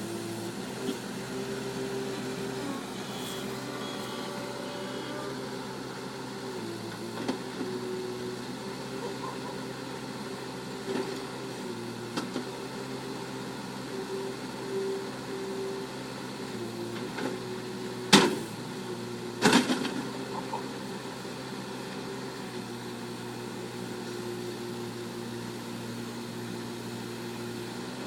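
Bulldozer's diesel engine running steadily, its pitch dipping briefly now and then as it takes load. Two sharp knocks stand out about two-thirds of the way through, a second and a half apart.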